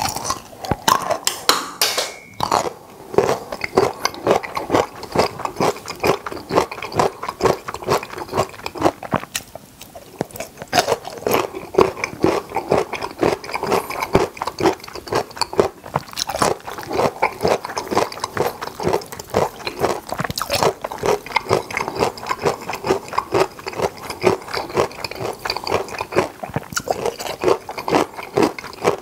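Close-miked chewing of a crunchy sweet pickle: a fast, steady run of wet, crisp crunches, several a second.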